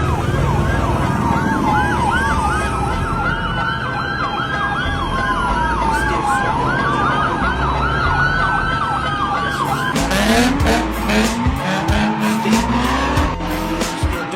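Several police sirens yelping and wailing at once, over a low engine rumble. About ten seconds in, the sirens give way to a car engine revving hard with sharp crackles.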